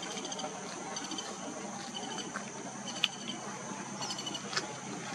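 Scattered short, high bird chirps over a steady outdoor background with a continuous high-pitched whine; a single sharp click about three seconds in.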